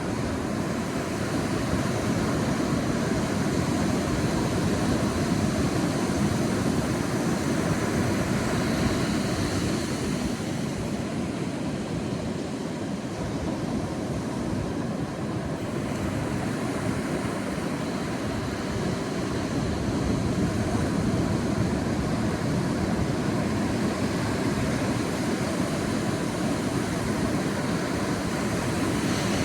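Sea waves washing onto a beach: a continuous deep rush of surf that swells and eases slowly over several seconds.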